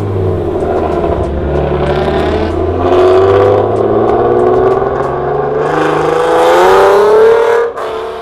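Car engine revving and accelerating away, its pitch climbing and getting loudest about three seconds in, climbing again from about six seconds, then cutting off sharply near the end.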